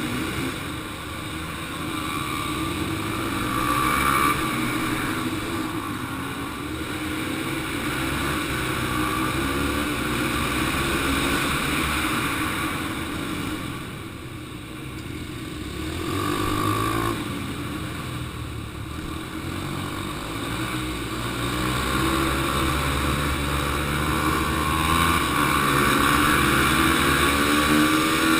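Small single-cylinder four-stroke dirt bike engines (Yamaha TT-R 125s) racing, the engine note repeatedly rising under throttle and dropping off into the corners.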